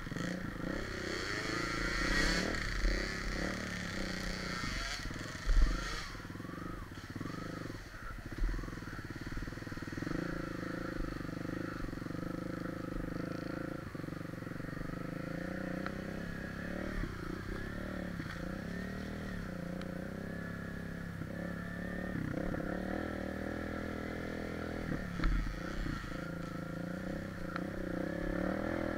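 Trail dirt bike engine running under a rider on a rough track, its pitch rising and falling as the throttle changes. A few sharp knocks stand out now and then.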